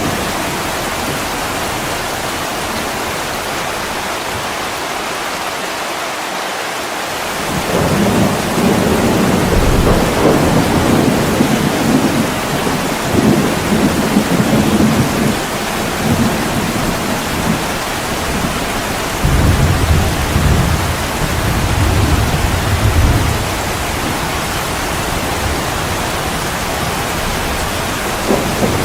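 Steady heavy rain pouring on a window. Rolling thunder joins about eight seconds in, rumbling low for about fifteen seconds in several swells before it fades.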